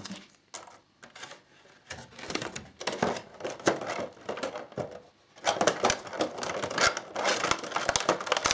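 Small plastic parts and bags of tiny screws being handled: a run of quick light clicks and rattles, sparse at first and dense over the last three seconds.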